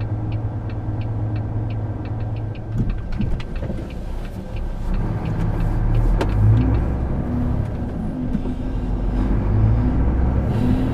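Volvo FH 540's straight-six diesel engine running, heard inside the cab, with a regular ticking of about four a second for the first few seconds, then the engine note rising and falling as the lorry pulls away.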